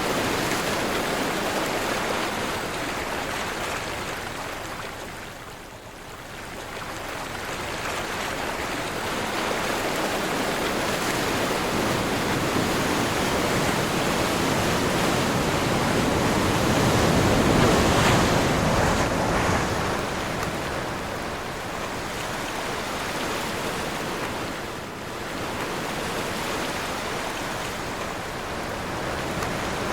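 Sea waves washing ashore in a strong wind, a steady rushing noise that swells and ebbs, quietest about a fifth of the way in and loudest about two-thirds through.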